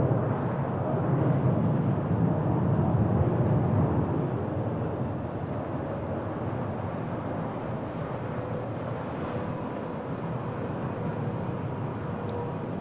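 Jet engines of a landing Boeing 787-10 airliner, a steady rushing noise that is loudest at the start and fades gradually as the aircraft moves away, with a faint steady whine late on.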